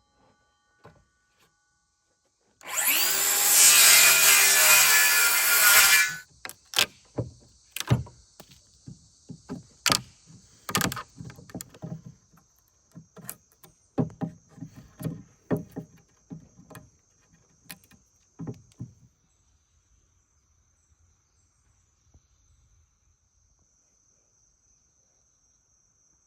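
A power tool runs on wood for about three and a half seconds, then stops. A string of irregular sharp knocks and clicks follows, from wood and tools being handled, and dies away after about nineteen seconds.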